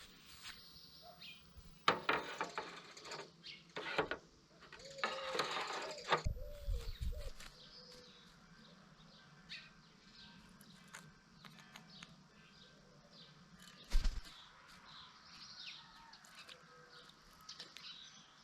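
Small garden birds chirping, with a few short noisy bursts of flapping or rustling, the loudest about two seconds in, around five to six seconds in, and about fourteen seconds in.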